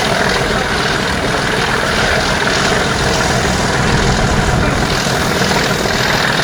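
English Electric 12CSVT V12 diesel engine of British Rail Class 37 locomotive 37240 working hard under power: a steady, loud thrash.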